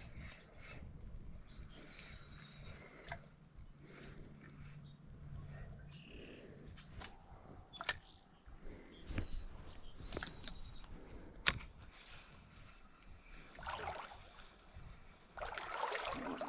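Faint creek-side sounds of wading barefoot through shallow water: quiet sloshing and knocks against a steady high insect drone, with a few sharp clicks and a louder splashing near the end.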